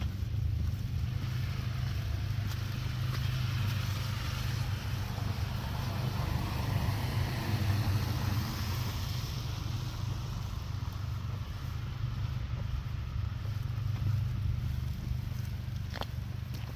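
A vehicle passes on a snowy street, its tyre hiss swelling and fading over a steady low rumble. A couple of short crunches come near the end.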